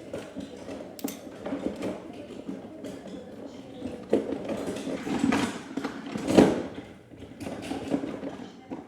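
Irregular clatter, scraping and knocks of something being handled, with a sharp click about a second in and the loudest knock about six seconds in.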